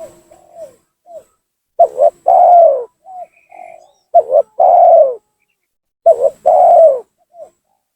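Spotted dove cooing in full voice: three loud phrases about two seconds apart, each a short double note followed by a longer falling coo, with softer coo notes in between.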